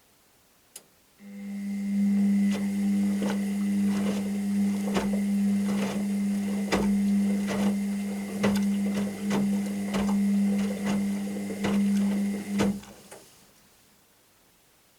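Washing machine motor turning the drum: a click, then a steady hum with a faint whine starts about a second in, with irregular knocks of the tumbling load throughout, and cuts off near the end. This is one tumble of the wash phase, with the pause that comes between turns.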